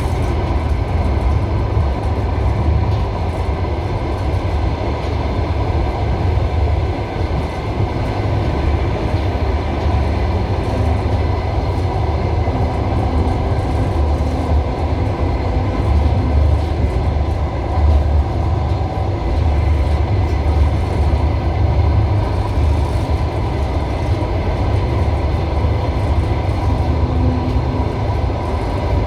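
Passenger railway carriage running along the track, heard from inside: a steady loud rumble of wheels on rails.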